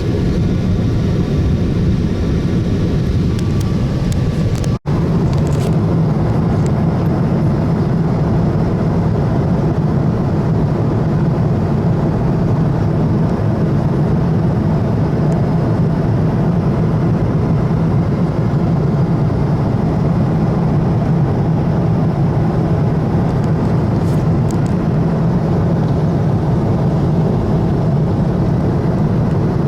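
Steady, loud drone of a moving vehicle with a constant low hum. It breaks off for an instant about five seconds in.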